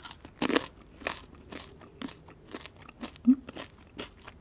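Crisp shoestring fries being bitten and chewed close to the microphone: a run of sharp, irregular crunches.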